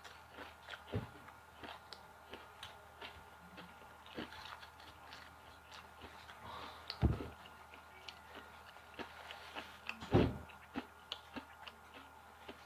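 Close-up mouth sounds of someone biting and chewing crispy fried chicken: many small crunching clicks scattered throughout, with three duller, louder thumps.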